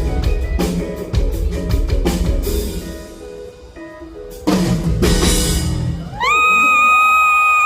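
Live band with drum kit and guitar playing the close of a pop-rock song, with a loud final hit about five seconds in. Then one long high-pitched scream from a fan in the crowd, held steady for about a second and a half and dropping away at the end.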